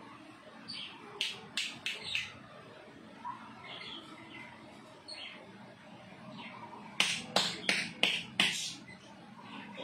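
Small birds chirping: scattered short, high chirps, then a loud quick run of about six chirps about seven seconds in.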